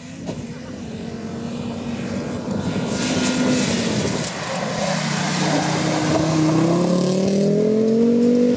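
Rally car engine coming closer and getting louder, with a brief lift in the engine note about four seconds in, then revving higher and higher as it accelerates.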